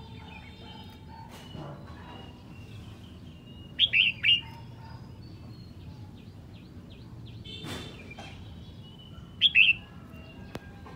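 Red-whiskered bulbul singing: two loud short bursts of sharp notes, one about four seconds in and another about five and a half seconds later, with fainter chirps between.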